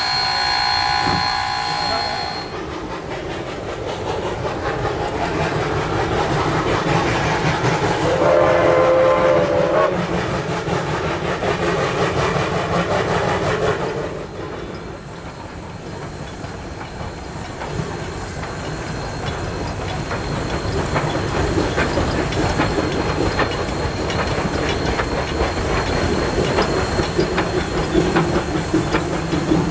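Narrow-gauge steam locomotive whistle sounding a chord that cuts off about two seconds in, followed by the rumble and clatter of the train running on the rails, with fine rapid clicking throughout. A shorter, lower tone sounds about eight seconds in.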